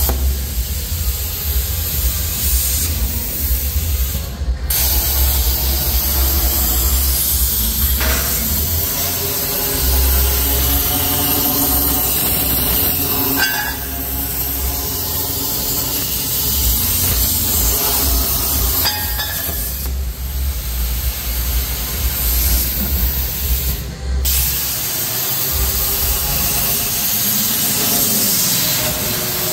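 CNC plasma cutter cutting sheet metal: a loud, steady hiss of the arc and air jet over a low rumble, changing several times as the cut goes on.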